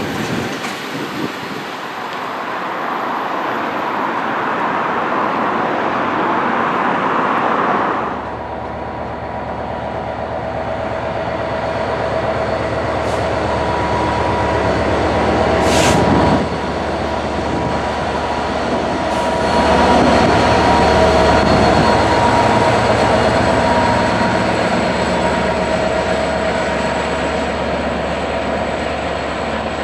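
Trains running on the rails: the wheel noise of a passing train, then, after an abrupt change about eight seconds in, a train running with steady whining tones over the rail noise. A brief sharp crack comes about halfway through.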